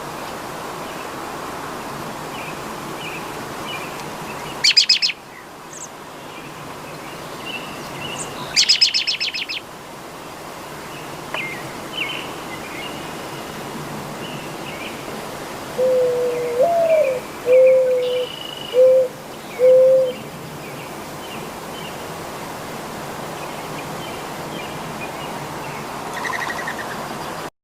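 A dove cooing: a short run of about five low coos past the middle, one of them rising and falling, among thin chirps of other birds. Two loud, rapid trills from another bird come early on, a few seconds apart.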